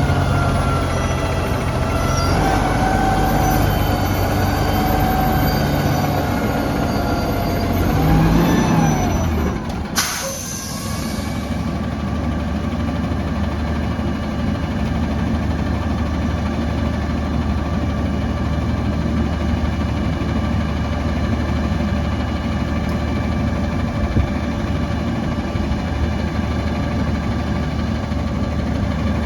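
Autocar ACX garbage truck's diesel engine running with its pitch rising and falling, then a short sharp air-brake hiss about 10 seconds in, after which the engine idles steadily.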